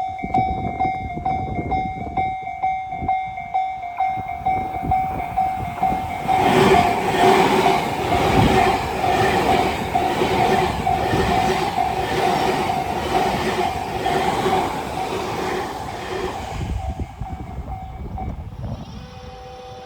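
Tobu 90000 series electric train passing at speed, its wheels clattering rhythmically over the rail joints for about ten seconds before fading away. Through this a railway level-crossing bell rings at about two strokes a second, stopping near the end.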